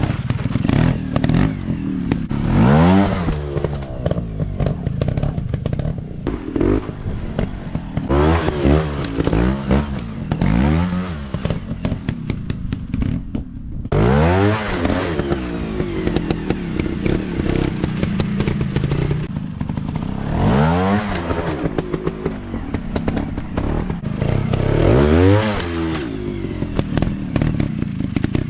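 Dirt bike engine revved in repeated short bursts, its pitch sweeping up and falling back about six times, with clattering and scraping between the revs.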